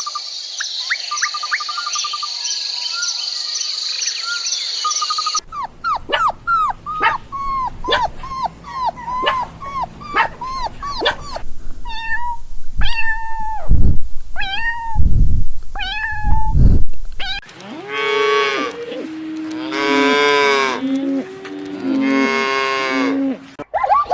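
A string of different animal calls, one after another. It opens with a steady high chirring and short chirps, moves to a fast run of short falling chirps, then to separate calls with low thuds. From about two-thirds of the way in come drawn-out, pitched calls that rise and fall, of the kind typical of cattle mooing.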